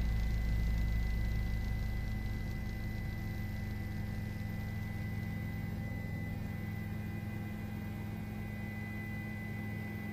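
Steady low hum with a few held tones above it; its deepest rumble eases off about three seconds in.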